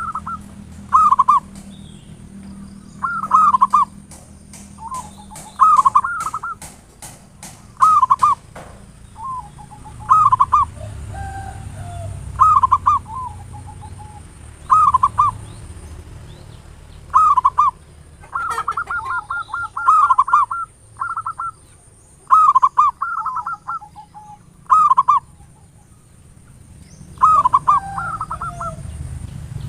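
Zebra dove (perkutut) cooing: short, rolling, bubbly phrases repeated every one to three seconds, with a longer rapid stuttering phrase about 18 seconds in. A quick run of sharp clicks sounds between about 3 and 9 seconds.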